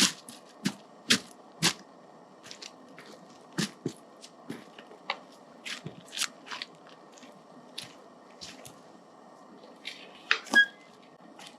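A campfire crackling and popping in irregular sharp snaps over a low steady hiss, with a louder cluster of snaps near the end.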